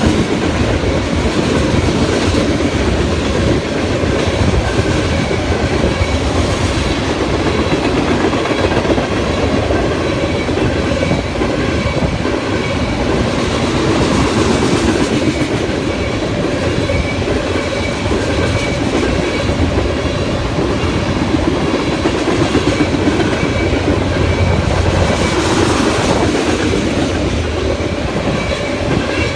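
Tank cars of a freight oil train rolling past, a steady, loud run of steel wheels on rail.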